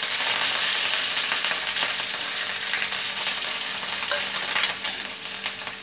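Freshly washed curry leaves going into hot ghee with cumin and green chillies in a kadhai: a loud sizzle that crackles and spatters, with a metal spatula stirring and scraping the pan. The sizzle is strongest as the wet leaves go in and eases a little toward the end.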